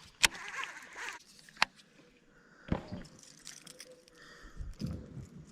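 Water trickling and sloshing around a kayak, with three sharp clicks in the first three seconds.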